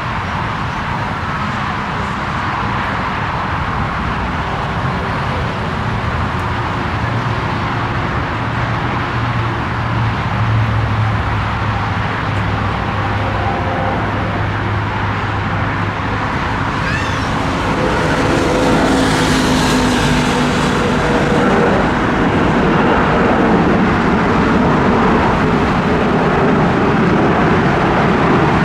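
Jet engines of a four-engine Airbus A340-300 airliner running: a steady roar with a low drone and shifting whining tones. It grows louder about two-thirds of the way through.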